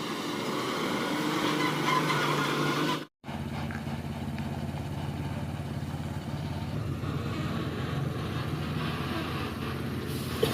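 Motor vehicle engine running steadily, breaking off abruptly for a moment about three seconds in, with a short sharp sound falling in pitch near the end.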